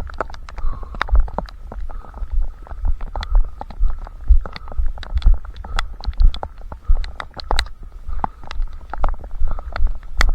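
A runner's footfalls and stride jolts picked up by a head-strapped camera: heavy low thumps about two to three times a second, with sharp clicks and rustle from gear over a faint steady hiss.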